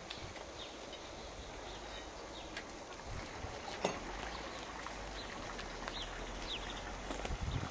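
Open countryside ambience: a steady hiss of air with scattered short, falling bird chirps and a low rumble of wind on the microphone in the middle, plus a single sharp click about four seconds in.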